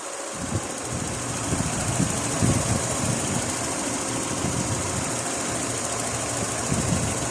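Nissan RB20E 2.0-litre straight-six idling with a low, uneven rumble that comes in at the start and grows louder over the first couple of seconds, then holds steady.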